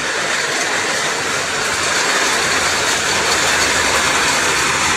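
Heavy rain pouring down in a dense, steady hiss that grows a little louder over the first couple of seconds.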